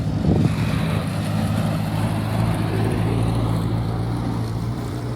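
A car engine running steadily with an even low hum.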